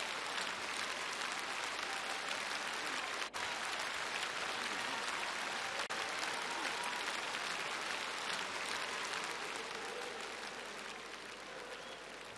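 Audience applauding steadily, fading gradually near the end.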